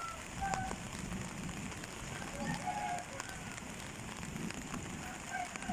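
Steady rain falling, with scattered ticks of drops and a few short bird calls.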